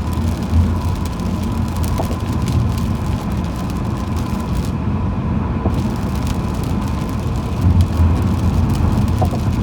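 Steady road noise of a car driving on a rain-wet highway: a low rumble with a hiss over it and a faint steady tone. The hiss drops away for about a second midway.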